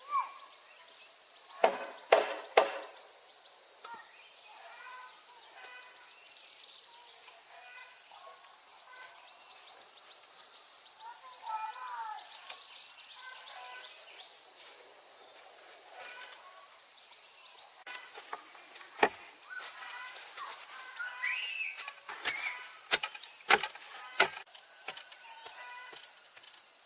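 A steady high-pitched insect drone in the background, with scattered sharp knocks (a pair about two seconds in, several close together near the end) and faint chirping calls in between.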